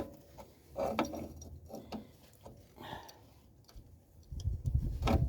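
Small metal clicks and clinks of drum brake hardware as a brake shoe's hold-down pin and spring are worked into place by hand, a sharp click about every second, with low rumbling handling noise in the last second.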